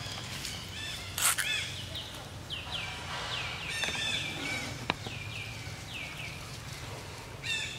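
A bird calling a run of short, falling chirps, about three a second, over outdoor background noise. There is a brief loud noise about a second in.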